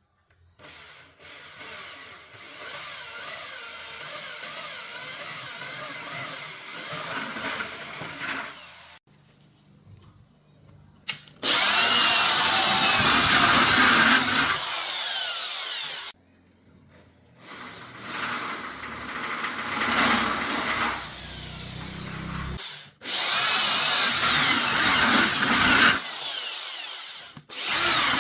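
Power tool run in several bursts of a few seconds each, with short pauses between; the louder bursts come about a third of the way in and again near the end.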